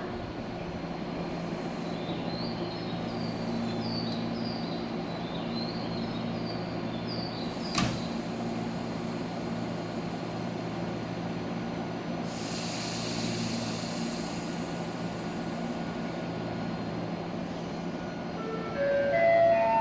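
Electric train standing at the platform with a steady hum, a burst of air hiss about twelve seconds in, and a run of rising stepped tones near the end as it starts to move off.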